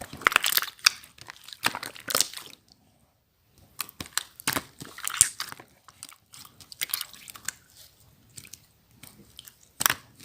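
Slime being squeezed and pressed by hand, giving sticky crackling and squishing clicks in short spells with pauses between them. A single sharp pop comes near the end.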